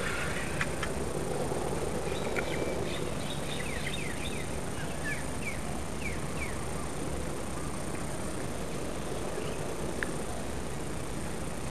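Steady outdoor background noise with a string of short, falling bird chirps a few seconds in, and a single click near the end.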